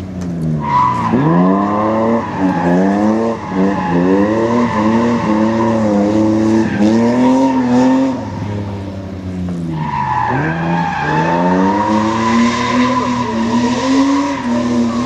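BMW E30 drifting: the engine revs climb and fall again and again under throttle while the tyres squeal in a long, steady screech. The squeal starts about a second in, breaks off briefly near ten seconds as the revs drop, then starts again.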